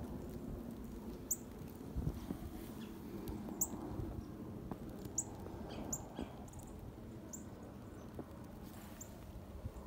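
Small birds giving short, high, falling chirps every second or so, over a steady low background rumble.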